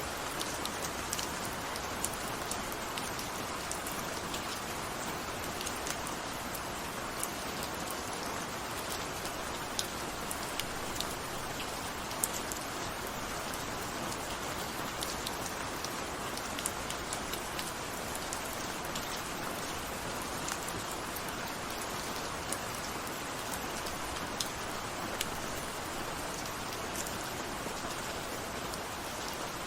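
Steady rain falling on a surface, a continuous even hiss with many individual drops ticking sharply throughout.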